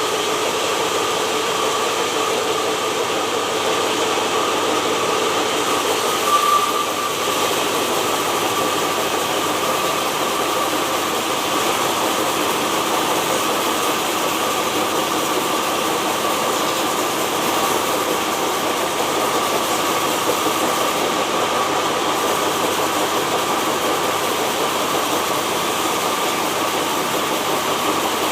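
Sawmill machinery running steadily, with a constant whine over a dense mechanical noise. There is a brief louder moment about six and a half seconds in.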